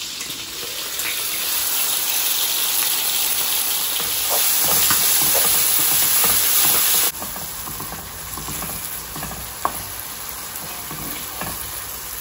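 Tomato and spice masala sizzling in oil in a nonstick wok while a wooden spatula stirs and scrapes through it. The sizzle grows louder, then drops suddenly about seven seconds in, with a single sharp click later on.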